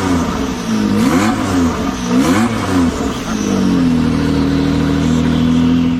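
Engine revving through its exhaust: several quick blips up and down, then held steady at a higher speed for the second half.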